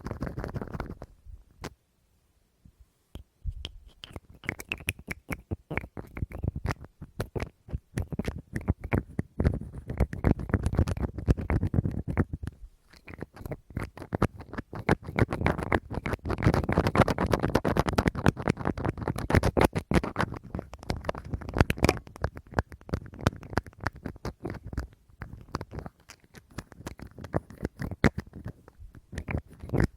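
Fast tapping and scratching on an object's surface: dense runs of small clicks, with a short pause about two seconds in.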